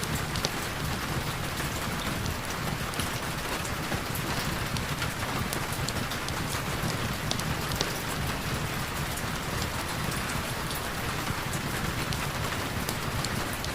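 Heavy rain falling steadily: a constant hiss with many small sharp drop ticks scattered through it and a low rumbling layer underneath.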